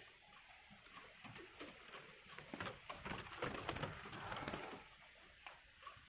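Faint bird calls mixed with scattered soft clicks and rustles of handling.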